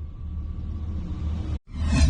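Deep rumbling bass from an opening sound-effect sting, trailing off from a whoosh, then cutting off abruptly about one and a half seconds in.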